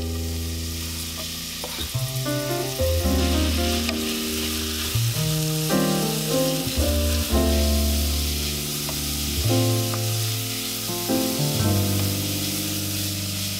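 Grated carrots sizzling in hot oil in a non-stick pan, stirred with a wooden spatula, under background music with a steady bass line.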